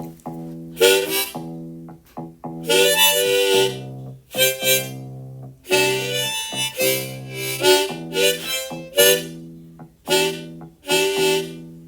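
Instrumental music: harmonica playing phrased melodic swells over a steady guitar accompaniment.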